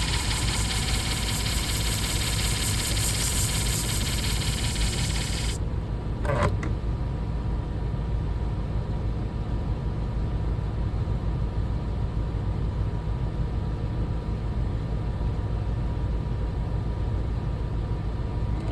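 Motor of an electric disc sharpening machine running with a steady low hum. For the first five or so seconds a loud hiss of the shear blade being ground on the abrasive disc rides over it, then cuts off suddenly, followed about a second later by a brief knock.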